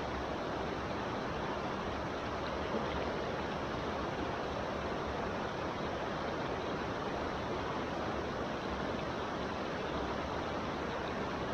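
Steady rush of a creek's rapids and falling water, an even noise with no breaks.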